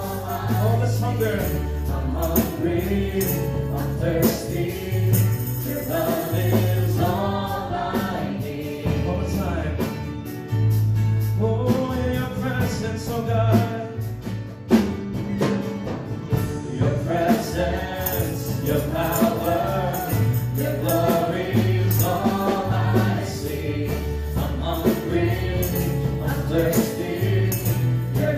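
Live gospel worship music: a band with bass and keys playing under a choir singing, with a tambourine or bells shaking along.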